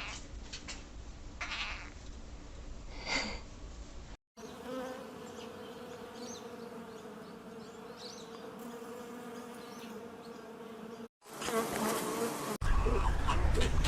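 A flying insect buzzing with a steady, even drone for about seven seconds, set between short clips of other animal sounds. Near the end a loud, deep sound starts.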